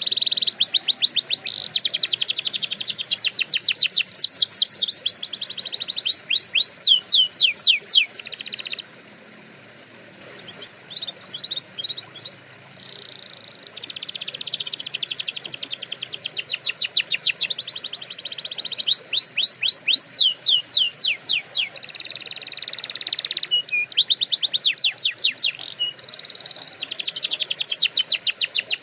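Canary singing: long runs of fast repeated trills and sweeping notes, each run shifting to a new note type. The song thins to a few scattered notes about a third of the way in, then resumes.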